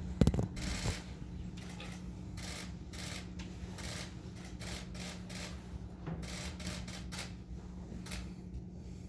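Several press photographers' camera shutters clicking in quick, irregular runs over a steady low room hum, with a louder knock just after the start.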